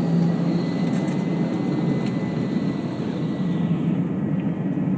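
Steady jet engine and cabin noise inside an Airbus A320 taxiing after landing, with a faint high whine that fades out about three seconds in.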